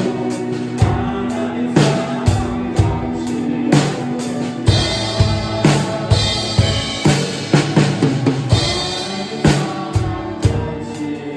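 Drum kit played along to a recorded worship-song backing track: steady kick and snare hits, with cymbal wash ringing through the middle of the passage.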